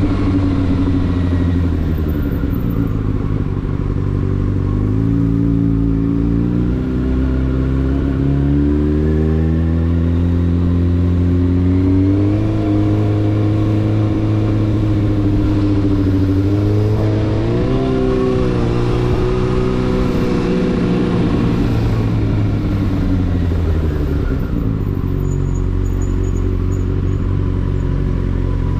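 Yamaha Fazer 600's inline-four engine running under way, its pitch climbing and dropping with throttle and gear changes, holding steady for several seconds in the middle and easing down near the end.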